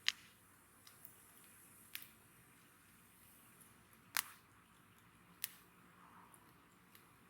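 Wood campfire burning, with four sharp pops from the burning wood, the loudest about four seconds in, and a few fainter ticks over a soft hiss.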